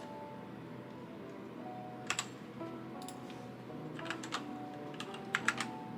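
Computer keyboard keys clicking in a few short clusters of quick strokes, over quiet background music.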